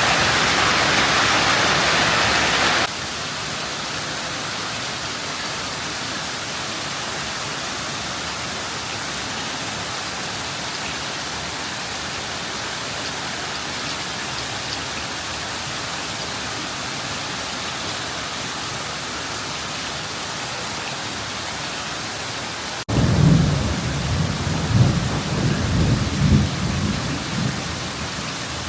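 Heavy rain pouring down in a steady hiss, louder for the first few seconds, then dropping suddenly to a steadier, lighter downpour. About six seconds from the end, a low rumble of thunder rolls in with several swelling peaks over the rain.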